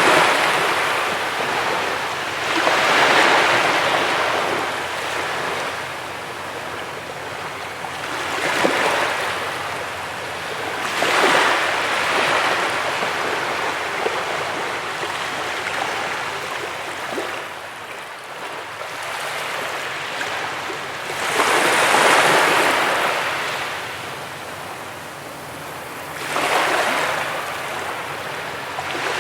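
Ocean surf on a beach: waves breaking and washing in, swelling and fading in about five surges over the half minute.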